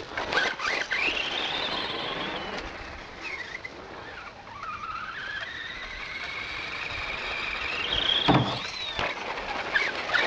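Losi 1/10-scale Desert Truck RC car's electric motor and gears whining with the throttle: the pitch climbs high, sinks about four seconds in, then climbs steadily again. A sharp thump about eight seconds in.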